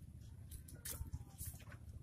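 A few sharp clicks and taps, with a faint cat meow gliding down in pitch.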